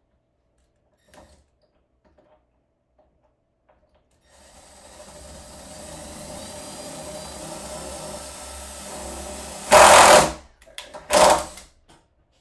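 Power drill driving a screw: the motor runs steadily for about five seconds, then gives two short, much louder bursts as the screw is driven home.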